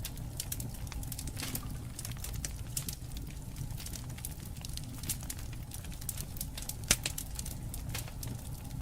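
Wood fire crackling, with many small snaps and pops over a low steady rumble; one sharp, louder pop about seven seconds in.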